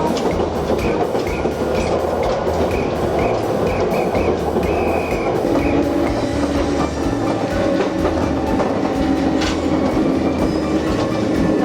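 Wakayama Electric Railway Kishigawa Line train running after the doors close, heard from inside the car: a steady rumble of wheels and motor, with a steady hum setting in about halfway through.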